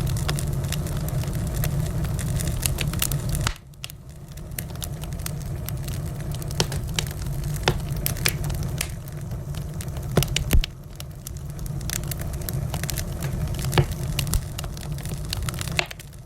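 Wood fire crackling in a fireplace: scattered sharp pops and snaps over a low rumble of burning. The rumble drops away suddenly about three and a half seconds in and again about ten and a half seconds in, then builds back.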